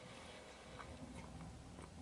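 Faint chewing of a mouthful of chicken paella, with a few soft mouth clicks.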